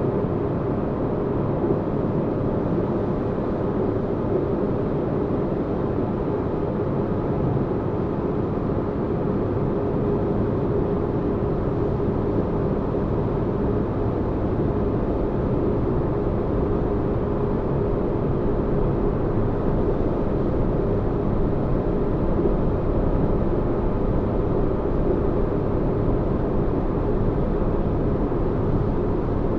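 Steady low rumbling spaceship-interior ambience: a deep, even drone of noise with a faint steady hum, made as white noise for sleep.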